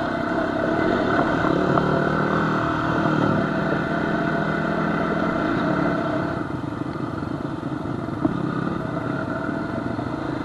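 Off-road engine running steadily while riding along a dirt trail, a little quieter from about six seconds in.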